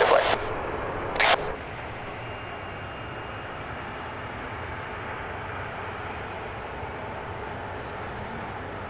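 Steady jet aircraft engine noise at an airport, holding at an even level, with a short burst of radio sound about a second in.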